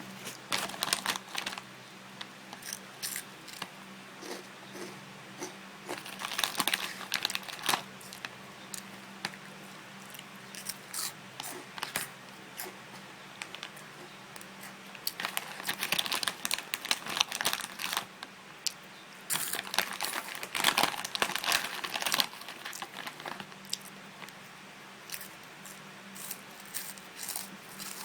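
Plastic snack packet crinkling in bursts while potato fries are eaten with crunching, several rustling spells separated by quieter pauses.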